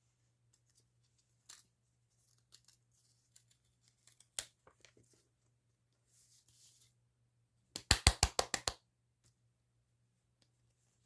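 Scissors and packaging being handled: scattered light clicks and rustles, then a quick run of about eight loud snips a little past halfway, as a mail parcel is cut open.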